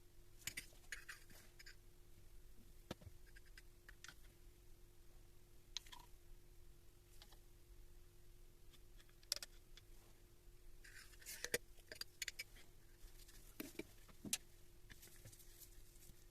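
Scattered faint clicks and light knocks of small parts and tools being handled during the tool repair, over a faint steady hum.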